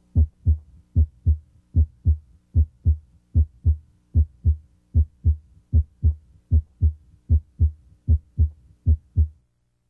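Normal heart sounds heard through a stethoscope at the mitral area (cardiac apex): paired lub-dub beats, S1 from mitral valve closure followed by S2, at about 75 beats a minute. At this site S1 is usually the louder of the two. The beats stop about half a second before the end.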